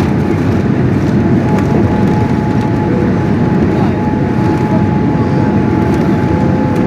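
Boeing 787 Dreamliner cabin noise during takeoff: a loud, steady rumble of the engines and airflow, with a faint steady whine joining about a second and a half in.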